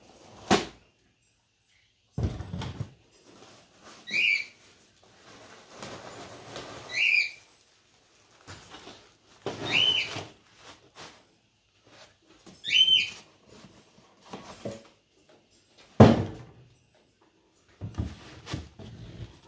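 A bird's whistled call, four short arched notes about three seconds apart, over the rustle of plastic packaging and the clatter of wooden parts handled on a table. Sharp knocks come just after the start and again about three-quarters of the way through.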